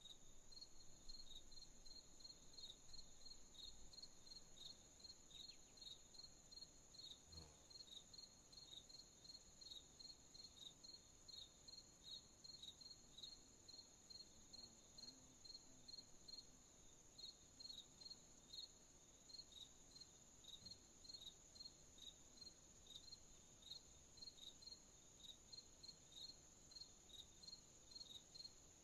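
Crickets chirping at night, faint: a steady run of short high chirps, about two a second, over a continuous thin high-pitched insect trill.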